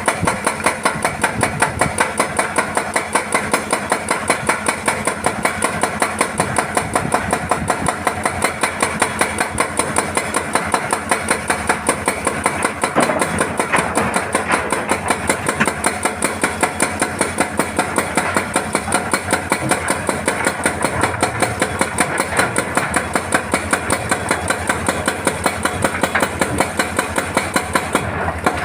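Hydraulic breaker on a Hitachi excavator hammering rock in rapid, even blows, several a second, over the excavator's diesel engine. The hammering stops abruptly near the end.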